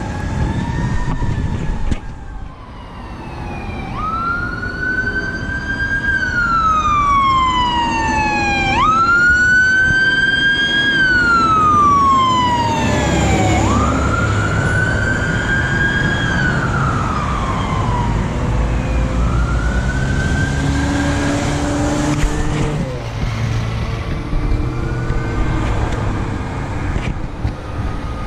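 Fire truck siren wailing, the pitch jumping up quickly and sinking slowly about every four to five seconds over a low truck engine rumble. The siren grows fainter in the last several seconds.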